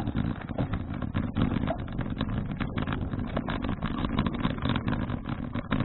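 Wind buffeting an action camera's microphone on a moving bicycle: a steady rushing rumble with irregular gusty thumps.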